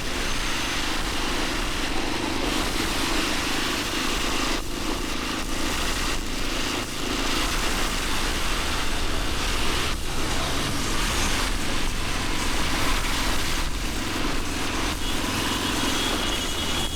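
Motorcycle running on the road through city traffic, heard as a steady rush of noise over a low engine rumble on a body-mounted action camera.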